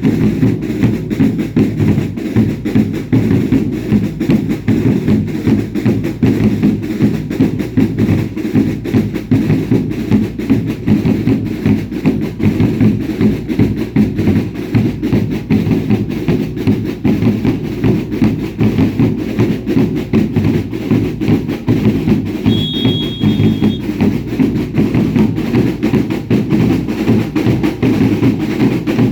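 Drums of a baile indio dance troupe beating a fast, steady rhythm, heavy bass drums to the fore. About two-thirds of the way through a short, high whistle tone sounds over the drumming.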